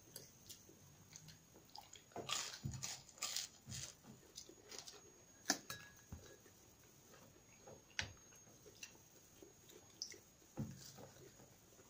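Faint chewing and mouth sounds of people eating chicken nuggets, with scattered small clicks and smacks, busiest about two to four seconds in.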